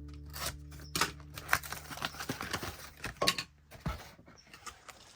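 Plastic and cardboard action-figure packaging being handled: an irregular run of sharp clicks and crinkles, thinning out toward the end.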